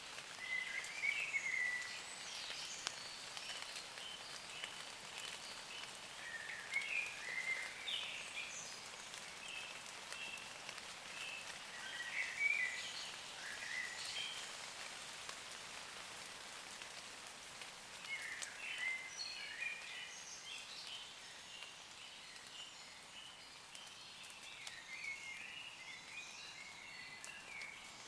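Light rain pattering steadily on leaves, with a woodland bird singing short chirping phrases about every five or six seconds.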